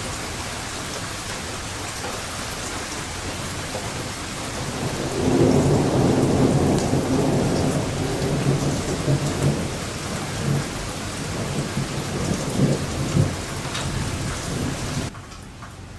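Steady rain falling, then about five seconds in a long roll of thunder builds into a low rumble with sharper peaks, running on for most of the rest. Near the end the whole sound drops suddenly quieter.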